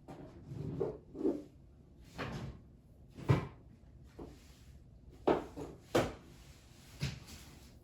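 A series of sharp knocks and bumps, about six, a second or so apart, from household things being handled and set down during cleaning.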